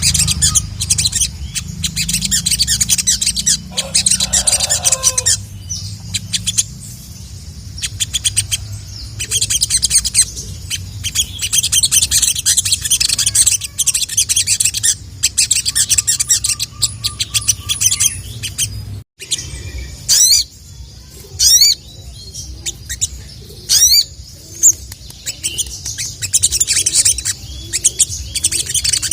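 Ruby-cheeked sunbird (sogok ontong) singing a fast, high twittering chirp song, the lively 'cuit cuit' calling used to lure rival males. It stops for a moment about two-thirds of the way in, then goes on with quick rising whistled notes. A steady low hum runs underneath.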